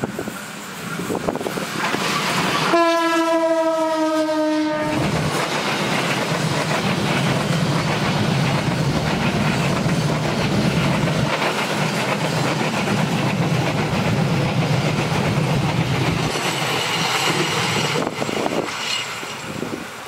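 Diesel-hauled train passing at close range. The locomotive sounds its horn once, a single note held about two seconds that dips slightly in pitch as it goes by. The wheels then rumble and clatter on the rails as the carriages pass for over ten seconds, fading near the end.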